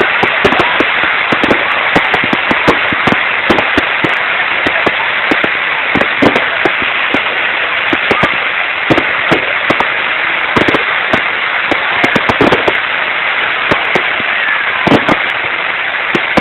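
Fireworks going off in a continuous dense crackle, with frequent sharper bangs and the odd faint whistle.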